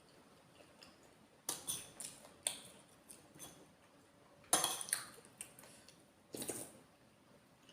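Close-miked eating sounds from someone eating red curry: a run of short, wet mouth and utensil noises. The loudest comes about four and a half seconds in and another near six and a half, with smaller ones in the first half.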